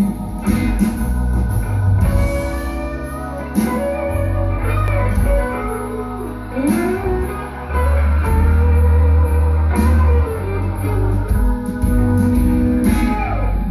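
Live blues-rock band music led by electric guitar over organ, with sliding notes.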